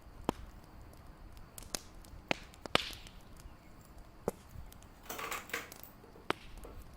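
Fireplace crackling: scattered sharp pops, about six of them at irregular times, with a short rushing hiss about five seconds in.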